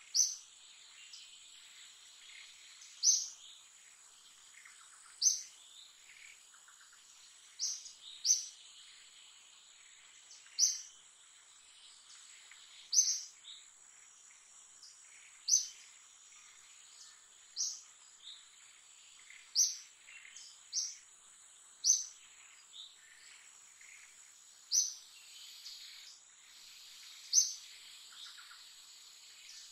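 A bird repeating a short, sharp high chirp about every two to three seconds over a steady, high-pitched insect drone.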